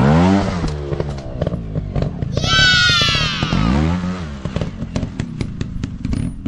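Dirt bike engines revving hard and dropping off several times: a sharp rise near the start, a high rev that falls away around the middle, and another climb soon after, with sharp pops and crackles throughout.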